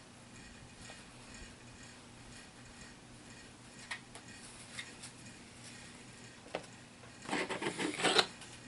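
Plastic HeroClix miniatures being handled on a tabletop: a few scattered soft clicks, then a burst of light plastic clattering about seven seconds in.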